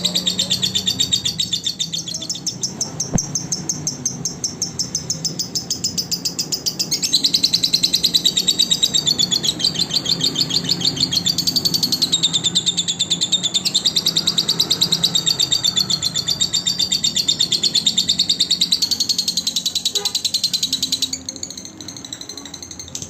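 Lovebird singing a long, rapid trilling chatter of high chirps repeated many times a second, getting louder about seven seconds in and easing off near the end.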